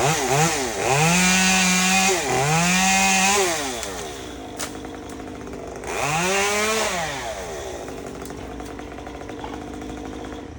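Chainsaw engine revving: a few quick blips, then two held revs of about a second each, dropping back to idle, with one more rev about six seconds in.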